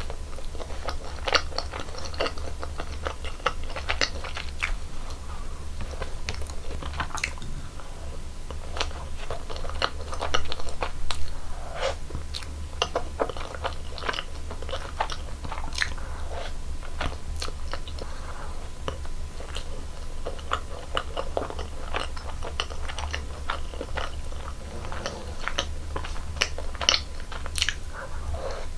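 Close-miked eating of soft cream-filled donuts: repeated bites and wet chewing, with short crisp crackles throughout.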